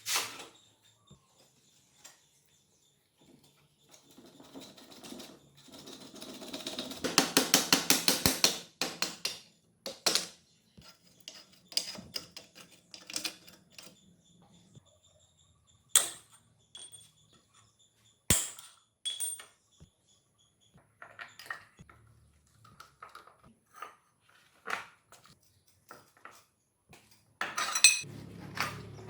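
Metal tools and parts clinking and knocking on a workbench, with a fast run of even clicks from about seven to nine seconds in.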